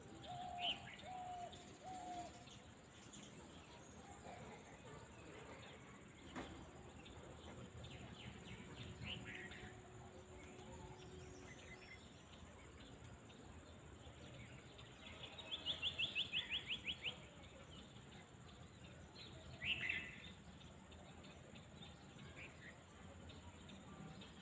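Faint outdoor ambience with small birds chirping now and then, and a quick descending trill of about ten notes a little past the middle, over a steady high hiss.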